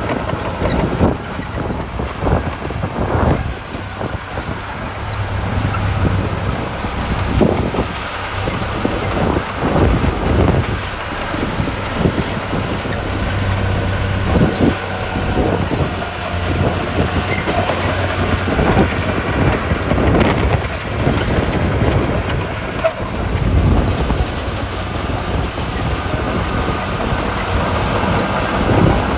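Komatsu D41P crawler bulldozer's diesel engine running under load, with its steel tracks clanking and knocking irregularly as it works.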